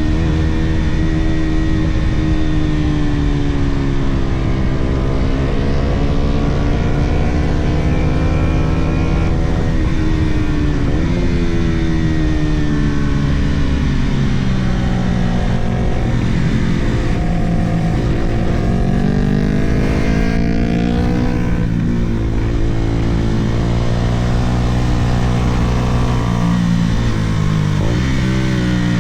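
Sport motorcycle engine running hard, its pitch rising and falling again and again as it accelerates, shifts and slows, over a steady low rumble of wind.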